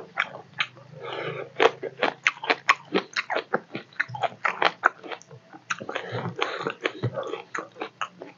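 Close-up chewing of rice and fish curry, with rapid wet lip smacks and mouth clicks, several a second.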